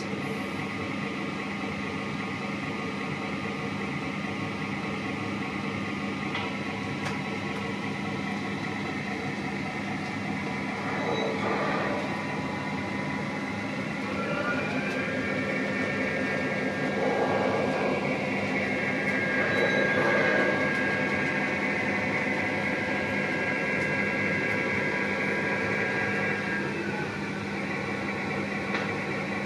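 Lionel O-gauge GP30 model diesel locomotive running on its track, its onboard sound system playing a steady diesel engine rumble over the hum of its motors and wheels, swelling louder for a while partway through.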